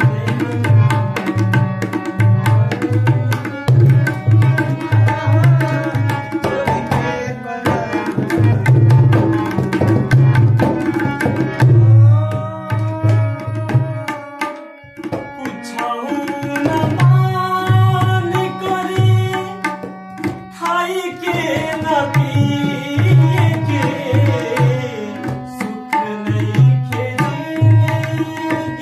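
Tabla playing a quick, steady rhythm under long held melodic notes: an instrumental passage of a Bhojpuri folk song. The drumming drops out briefly about halfway through.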